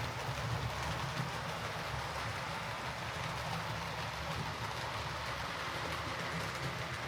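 Hornby Class A4 OO gauge model steam locomotive running on the track: a steady motor hum with the rumble of wheels on the rails.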